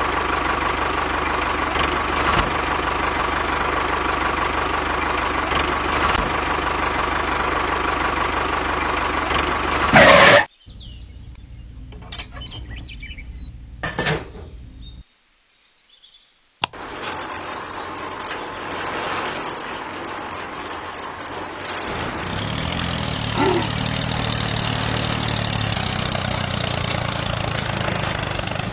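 Small electric motors and plastic gearing of a homemade toy tractor running with a steady whine. About ten seconds in comes a sharp loud burst, then quieter handling sounds and a brief gap. After that the motors run again as the tractor pulls its motorised disc harrow through sand, the hum growing fuller and lower near the end.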